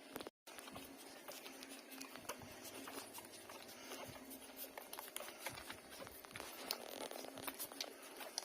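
Puppies suckling at their mother's teats, hungry and sucking hard: a faint, irregular run of many soft clicks and smacks. The sound drops out completely for a split second just after the start.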